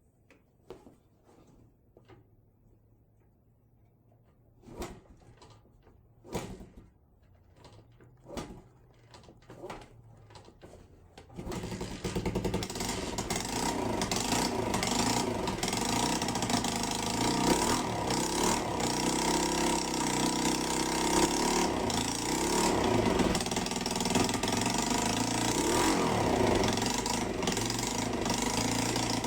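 Small four-stroke Chinese Honda-clone motorcycle engine: a few scattered knocks and clicks, then about eleven seconds in the engine catches and runs steadily at idle.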